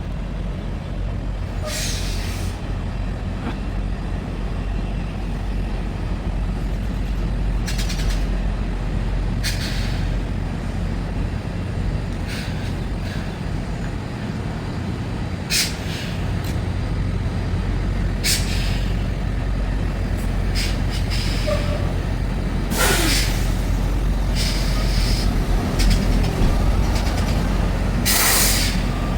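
Heavy truck's engine running steadily, with several short hisses of air breaking in, the longest about three-quarters of the way through, typical of air brakes.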